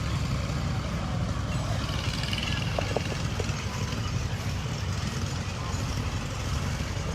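Engine running steadily at a tractor-pulling track, a low even rumble, with a few faint short tones about three seconds in.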